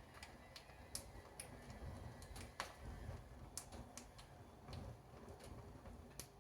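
Faint crackling of leather riding boots burning in a wood-burning stove: scattered, irregular pops and ticks over a low rumble of flame, with one sharper pop about halfway through.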